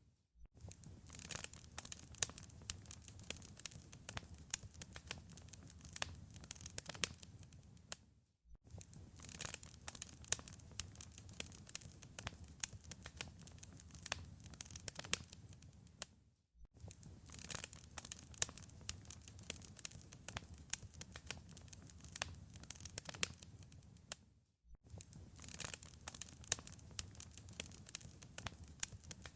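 Wood fire in a fireplace crackling and popping over a steady low rumble of flames. The sound cuts out briefly about every eight seconds, then resumes.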